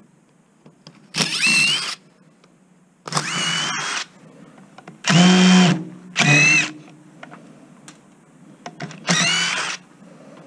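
Power drill run in five short bursts, each a high whine that rises in pitch as the motor spins up, with small clicks between them.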